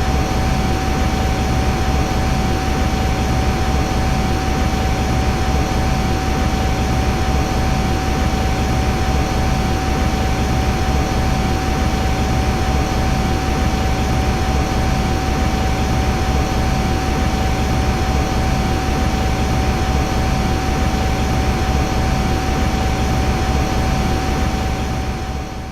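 Metal lathe running steadily: a constant machine hum and noise with one steady whine, fading out at the end.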